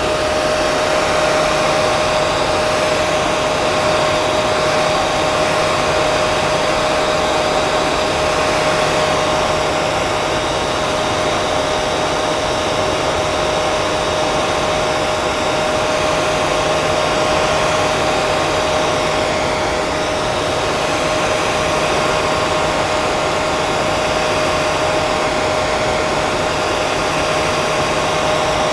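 Hair dryer running steadily: an even rush of blowing air with a constant motor whine.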